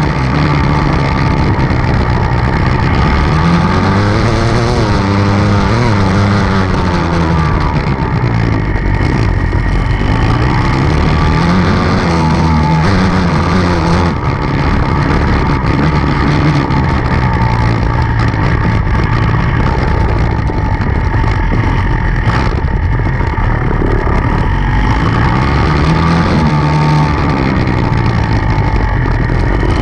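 Enduro dirt bike engine revving up and down repeatedly as it is ridden, its pitch rising and falling with the throttle over a steady rush of noise.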